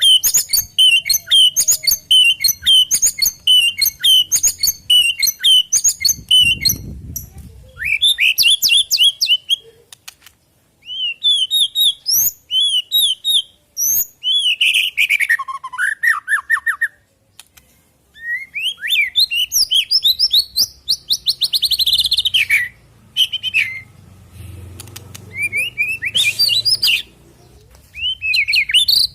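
White-rumped shama (murai batu) singing a loud, varied song. It opens with a quick run of repeated chirps, then moves into whistled phrases that slide up and down, with a rapid trill about two-thirds of the way through and short pauses between phrases.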